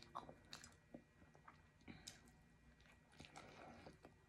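Faint close-up chewing of a bacon cheeseburger, with scattered soft mouth clicks and smacks.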